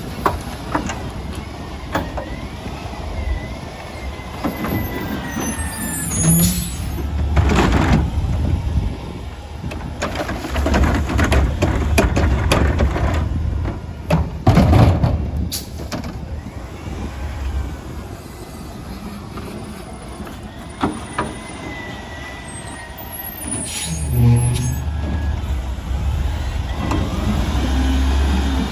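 Autocar ACX garbage truck with a McNeilus Contender body working a pickup. Its engine runs and revs up in several surges, with air brakes hissing and repeated sharp knocks and clatters.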